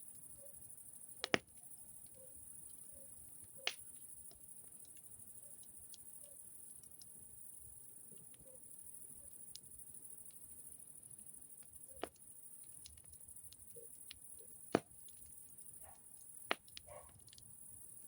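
Campfire burning, with about five sharp pops and many smaller crackles over a faint steady high hiss.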